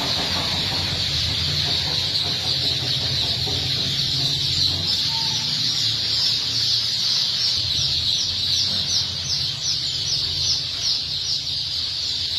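A large flock of small birds chirping all at once in a dense, steady chorus, over a low steady hum. Near the end a run of repeated falling calls stands out, about three a second.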